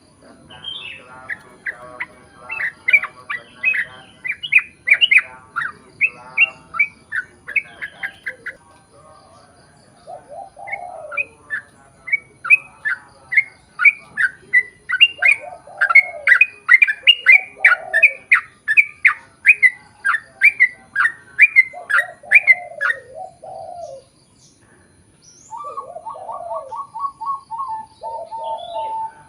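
Yellow-vented bulbul (trucukan) singing a long, rapid run of repeated sweeping notes, about four to five a second, the 'ropel panjang' rattle used to lure other bulbuls into singing. It sings two such runs, the second about twelve seconds in. Lower, softer warbled phrases come between and after them, with a coo-like call near the end.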